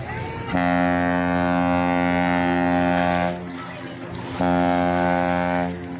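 A ship's horn sounding a long, steady blast of almost three seconds, then a second, shorter blast about a second later.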